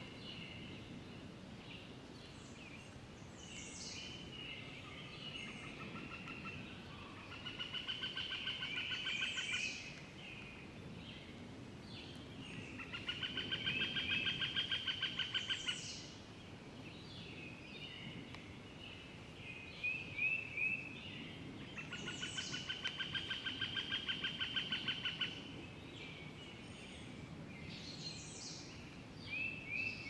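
Forest songbirds singing. One bird repeats a loud, rapid trilled song lasting two to three seconds, three times, about every five to ten seconds, each song growing louder as it goes. Between the songs come shorter chirps and high falling whistles from other birds.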